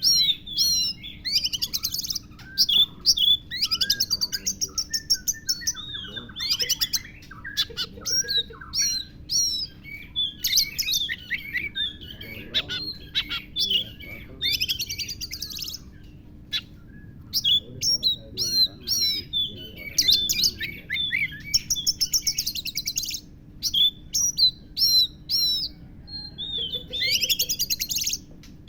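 Oriental magpie-robin (kacer) singing a long, varied song of rapid trills, whistled sweeps and chattering phrases with short pauses between them, its song filled with imitations of lovebird calls.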